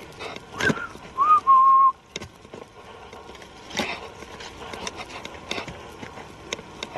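A short whistle about a second in: a brief bent note, then a clear note that rises and holds steady for under a second. Scattered clicks and crunches of footsteps on a forest trail run through the rest.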